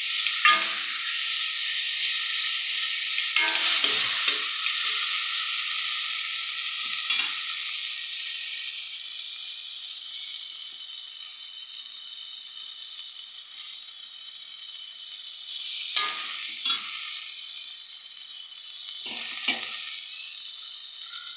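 Chopped tomato and spices sizzling in hot oil in a stainless steel pot, stirred with a metal spoon that scrapes the pot bottom in short strokes. The sizzle is loudest for the first several seconds, then settles to a quieter hiss. A few more stirring scrapes come in the second half.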